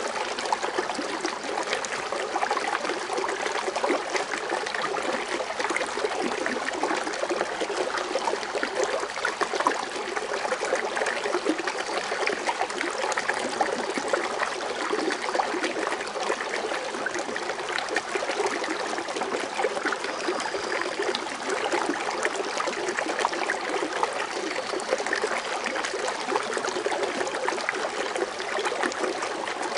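Foaming water fountain splashing and trickling steadily, without a break.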